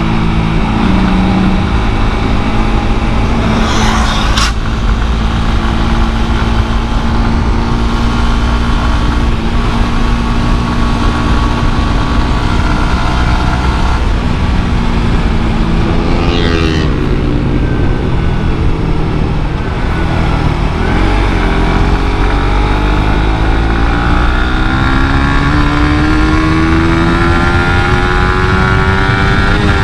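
Suzuki GSX-R150's single-cylinder engine through its stock exhaust, running at a steady pitch, dipping briefly about halfway through, then rising steadily as it accelerates over the last third. Two short hissing bursts come about 4 and 16 seconds in.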